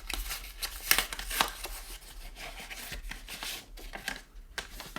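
Wrapping being handled and pulled open to get at a small set of cards: irregular rustling and crinkling with small taps and clicks, easing off near the end.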